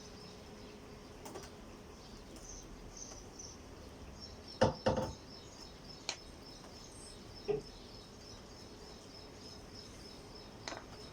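A few sharp knocks and clicks over quiet room noise with a faint steady high tone. The loudest is a quick double knock about halfway through; lighter clicks follow and one more comes near the end.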